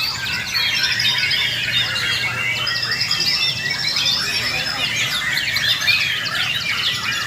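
Many white-rumped shamas singing at once in contest, a dense overlapping chorus of whistles, trills and rapid repeated notes with no break.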